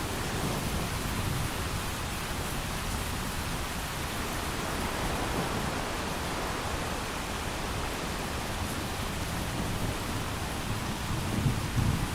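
Steady heavy rain, with a low rumble of thunder swelling near the end.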